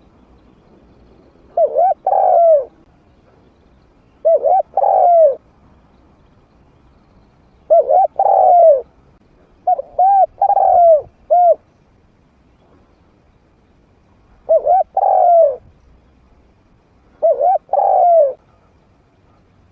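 A trained spotted dove cooing in a medium-pitched voice: six short phrases of a few rounded coo notes each, spaced a few seconds apart.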